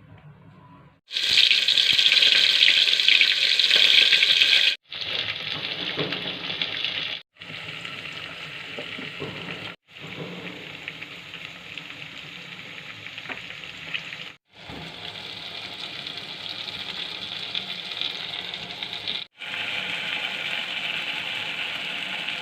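Food sizzling in a hot pan, heard as a run of short clips that cut in and out abruptly; the first stretch is the loudest.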